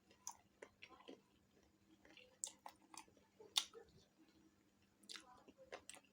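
Close-miked chewing of food, with irregular wet mouth clicks and smacks and one sharper crack about three and a half seconds in.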